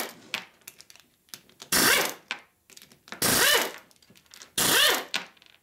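Panhead rocker arm being worked on its shaft: three short metal-on-metal scrapes, each with a squeal that rises and falls in pitch. The arm still drags in its bore, which the mechanic takes for grit or a burr still inside.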